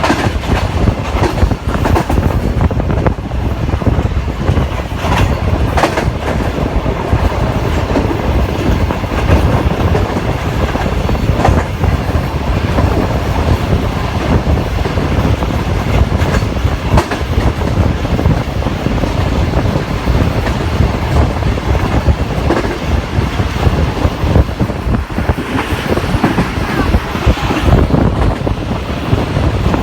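Pakistan Railways Green Line express train running on the rails: a loud, steady rumble with scattered sharp clicks as the wheels pass over rail joints.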